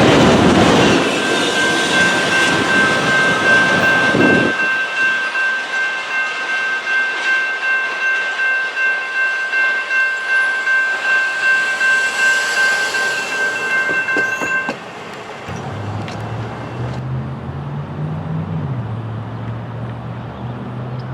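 A passing train's wheels running on the rails, with a steady high ringing tone that cuts off suddenly about fifteen seconds in. After that a road vehicle's engine runs low.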